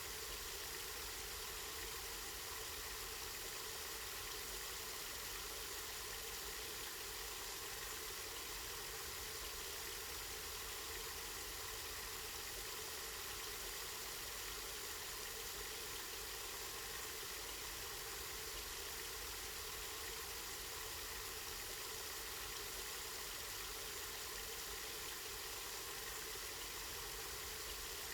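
Water from a spring flowing steadily: an even, unbroken hiss of running water that does not change.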